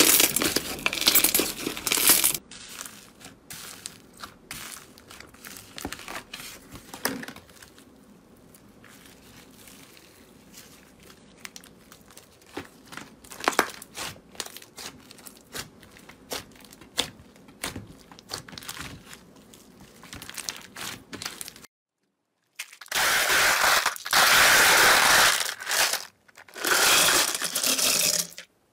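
Slime being squeezed, poked and stretched by hand: many small sticky crackles and popping clicks. Near the end come two louder stretches of dense crackling.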